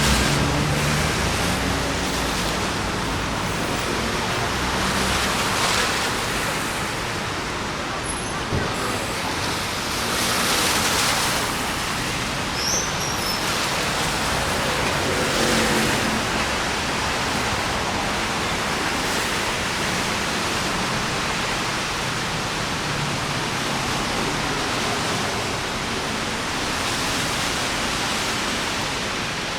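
Steady hiss of rain and of traffic on wet streets, swelling a few times as vehicles pass.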